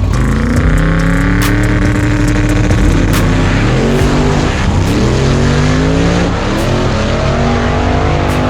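Drag race car's engine under full throttle on a pass, its pitch climbing, falling back at a gear change and climbing again, twice over.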